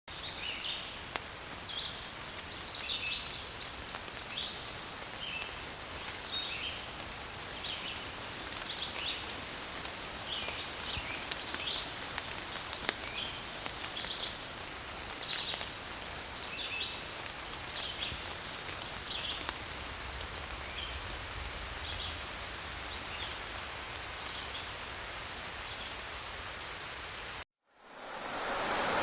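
Forest ambience: a steady hiss, like light rain or leaves in the wind, with many short high bird chirps throughout. Near the end it cuts off abruptly, and heavier rain fades in.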